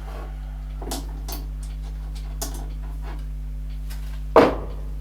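Steady low electrical hum with a few faint clicks, and near the end one short, loud sharp breath.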